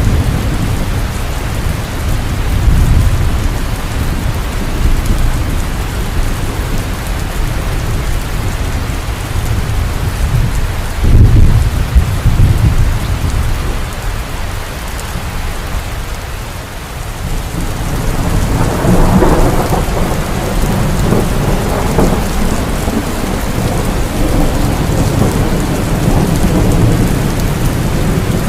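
Heavy rain falling steadily with thunder: a sharp crack about eleven seconds in rolls off into rumbling, and another long roll of thunder builds about eighteen seconds in.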